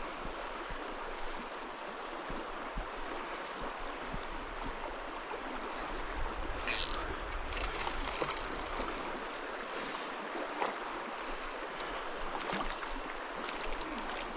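Small mountain stream running with a steady rush of water, with a brief sharp noise about halfway through.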